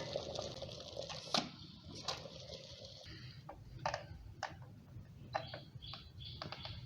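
Electric kettle with water boiling, a low steady rumble, under about eight scattered light clicks and taps. It keeps boiling because its broken lid won't close, so it doesn't switch itself off.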